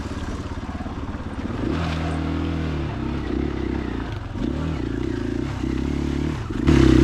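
2021 KTM 500 EXC-F's single-cylinder four-stroke engine running on the move, its note stepping up and down with the throttle and louder near the end.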